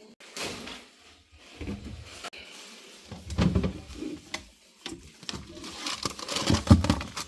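Irregular handling noises: rustling and scattered knocks, with two louder bursts about three and a half and six and a half seconds in.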